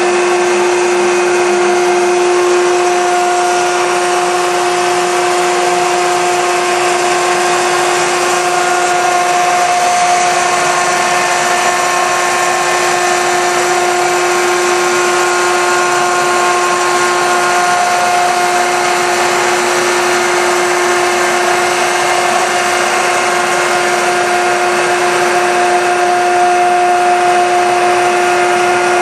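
Piqua Series 40 vertical baler's 7.5-hp three-phase electric motor and hydraulic pump running steadily during a baling cycle: a constant whine over a machine hiss, with no change in pitch or level.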